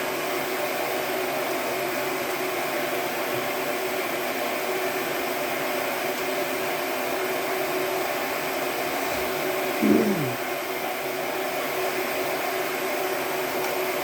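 Shop blower running with a steady whir and hum. About ten seconds in, a short sound falls quickly in pitch.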